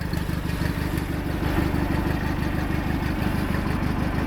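Craftsman GT6000 garden tractor engine running steadily at idle after a cold start, with an even, fast exhaust pulse; it gets a little louder about a second and a half in.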